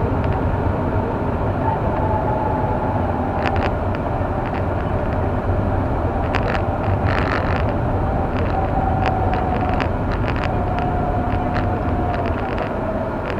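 Car driving on a snow-covered road: steady engine and road noise, with a faint wavering whine and scattered light ticks.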